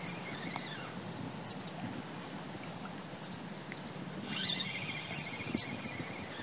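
A songbird singing two bursts of rapid, repeated high notes, the second starting about four seconds in, over a steady low rumble of background noise.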